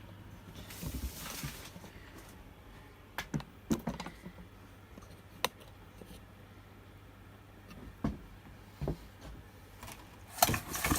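Scattered light knocks and clicks of hand tools and chainsaw parts being handled, with a short rustle about a second in and a quick run of louder clicks near the end, over a steady low hum.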